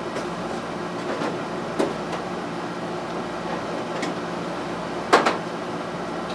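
A few sharp knocks and clicks of objects being handled over a steady background hum, the loudest a quick double knock about five seconds in.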